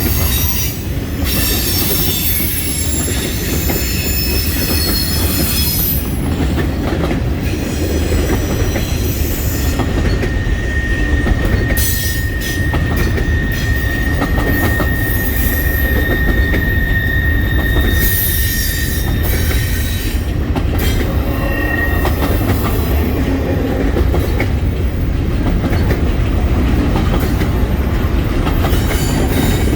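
Norfolk Southern freight train's cars rolling past: a steady low rumble of wheels on rail with high-pitched wheel squeals, one long steady squeal held for several seconds around the middle.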